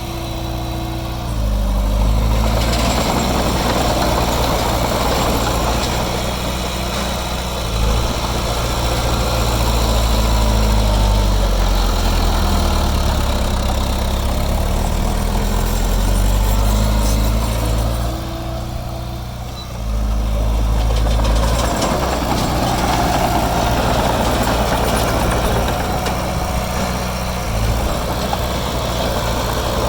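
Heavy diesel engine of earthmoving machinery working, its speed stepping up and down as the load changes. It eases off briefly about two seconds in and again about two-thirds of the way through.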